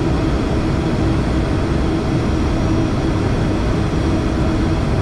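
Steady airliner flight-deck noise on final approach: the low rumble of engines and airflow with a faint steady hum.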